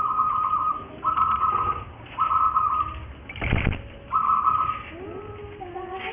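Burung puter doves calling: four steady, pulsing notes of about a second each, then lower gliding coos near the end. A short loud burst of noise cuts in about halfway.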